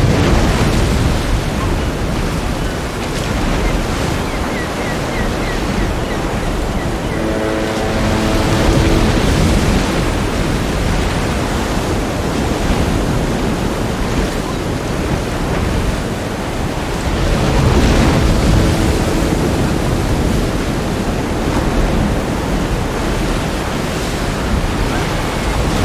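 Ocean surf breaking and washing on a beach, a continuous rushing wash that swells louder about a third of the way in and again past the middle, with wind rumbling on the microphone.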